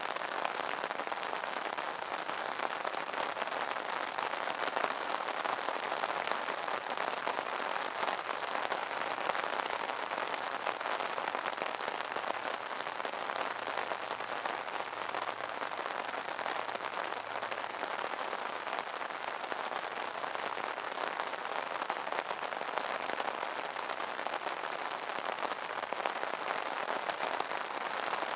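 Steady rain falling on an umbrella canopy: a dense, even hiss of many small drop ticks that never lets up.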